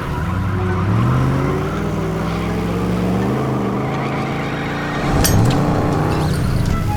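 Cartoon truck engines revving hard, the pitch climbing and dropping back twice, with a sharp metallic clank about five seconds in.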